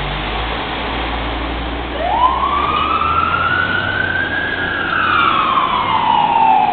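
Scania fire truck's siren starting up about two seconds in over the truck's engine, a slow wail that rises, falls gradually and begins to rise again near the end.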